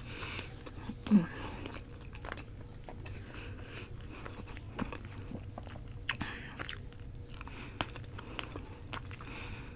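Close-miked chewing of roti: soft mouth sounds with scattered small clicks throughout, and one louder mouth sound about a second in.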